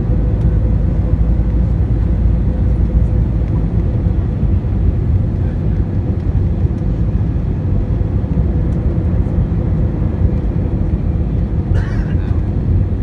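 Steady low roar of a jet airliner's engines and airflow heard inside the passenger cabin during the descent to land, with a faint steady hum on top.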